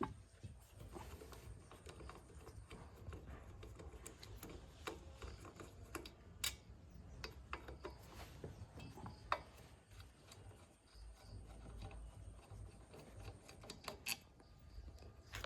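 Light workshop handling noise: scattered small clicks, taps and rubbing over a low rumble, with a few sharper clicks, one about six and a half seconds in, one about nine seconds in and one near the end.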